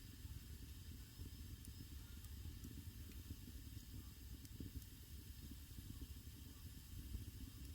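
Wood fire burning in a traditional Korean agungi firebox: a faint, steady low rumble and hiss with a few small crackles.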